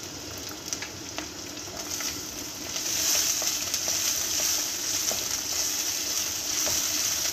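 Chopped green bell pepper, garlic and onion sizzling in hot oil in a black wok, stirred with a wooden spatula. The sizzle grows louder about three seconds in as the stirring gets going, with light scrapes of the spatula against the pan.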